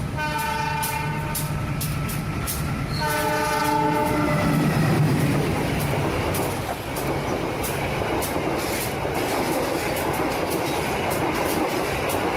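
A train horn blowing: one blast ending just after the start and a second from about 3 to 4.5 s in. After that comes the steady rumble of a train rolling along the track, with regular clickety-clack of the wheels.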